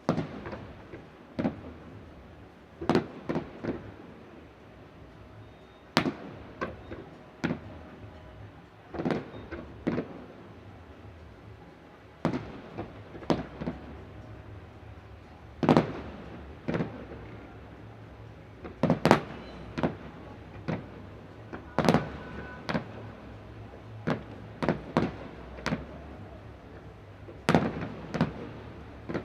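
Aerial fireworks shells bursting, a steady, irregular succession of sharp bangs, some single and some in quick clusters of two or three, heard from a distance.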